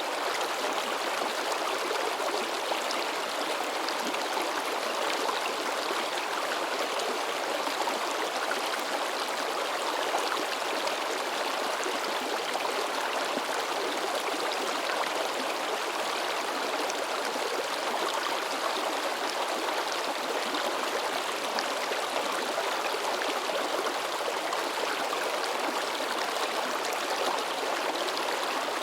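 Shallow mountain river babbling and splashing over rocks, a steady rushing and gurgling of water.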